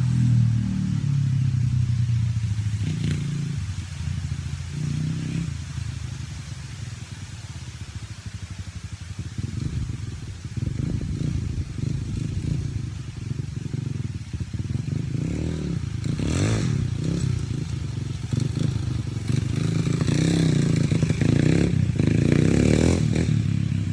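Dirt bike engine revving up and down as it is ridden, its pitch rising and falling, loudest near the start and again near the end.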